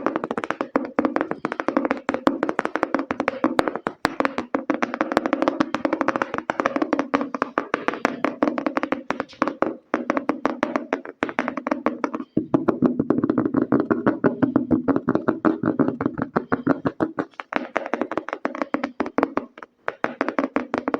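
Fast ASMR tapping with fingers on a hard object: a dense run of many quick taps a second with a hollow ring, pausing briefly about halfway through.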